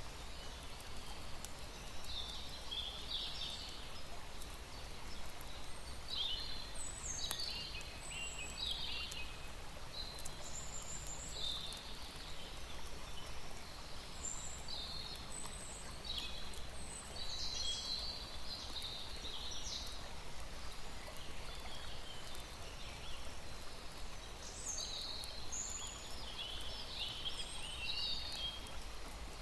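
Small birds chirping in short, high calls, scattered throughout, over a steady low hum.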